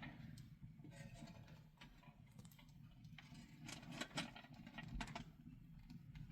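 Faint scattered clicks and light taps, bunched in the middle, over a steady low rumble.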